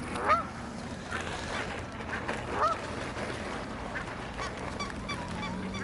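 A flock of geese and other waterfowl calling: short, scattered honks, a few seconds apart, over a steady background of the flock.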